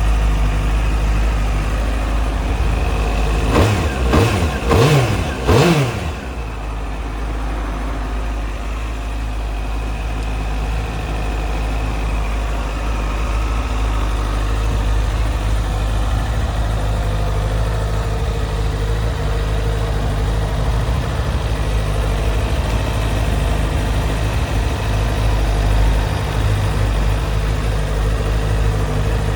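Honda CBR900RR 929 Fireblade's inline-four engine idling steadily, with three quick throttle blips about four to six seconds in, each rising and falling back to idle.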